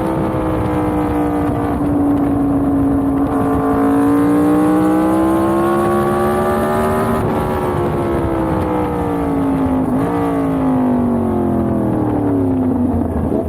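Yamaha MT-10's crossplane inline-four engine running under way: its pitch dips slightly, climbs steadily to about halfway, then falls away over the rest, with a brief hitch about ten seconds in.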